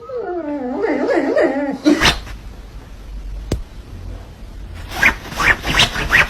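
A dog's wavering, warbling whine for about two seconds, then a couple of sharp knocks and a run of short, sharp noisy bursts near the end.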